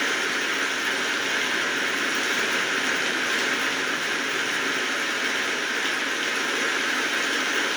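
Steady rainfall: an even, unbroken hiss of raindrops with no change in strength.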